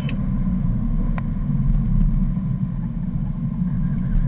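2011 BMW M3's V8 engine and road noise heard from inside the cabin as the car drives a track lap, a steady low rumble without sharp revving.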